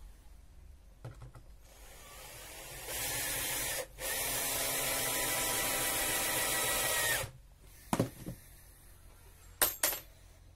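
Electric drill running in two steady bursts, the second about three seconds long, with a brief stop between them. It is followed by a few sharp knocks, wood or tool against wood.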